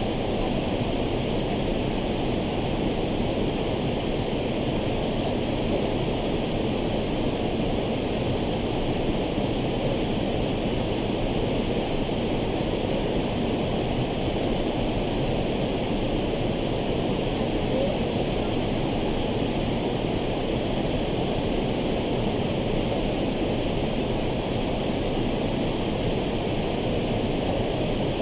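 Waterfall falling with a steady, unbroken rush of water.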